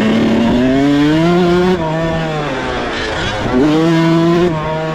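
Dirt bike engines out on the track. One revs up and holds, drops off about two seconds in, then revs up and holds again, over a lower, steadier engine note.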